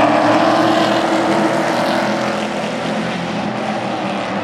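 Super truck race engines running hard on the oval, several engines overlapping at full throttle. The loudness eases slightly as they move away.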